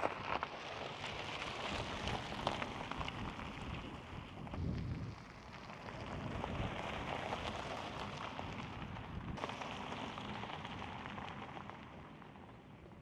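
Rain falling steadily, with many separate drop hits, and a brief deeper swell about a third of the way through.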